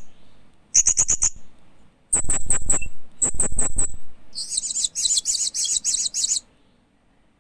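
Hanging parrot (Loriculus) chirping: shrill, high notes in quick runs of six to eight, then a longer rapid chatter, stopping about a second before the end.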